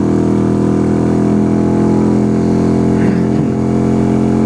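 Yamaha YBR 125 motorcycle's single-cylinder four-stroke engine running steadily at one unchanging pitch.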